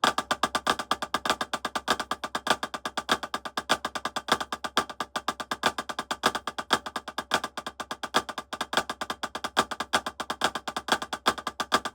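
Drumsticks playing a fast flam exercise: an unbroken, even stream of sharp strokes that stops just before the end.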